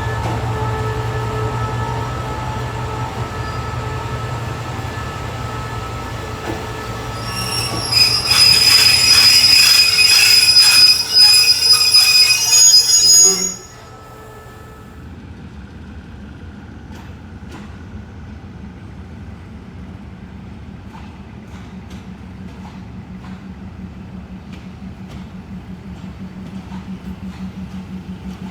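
Diesel train running slowly through the station tracks: a steady engine hum, then loud high-pitched wheel flange squeal with clacking over the rails for about six seconds that cuts off abruptly. Afterwards, quieter clicks and a steady low engine hum that slowly grows louder.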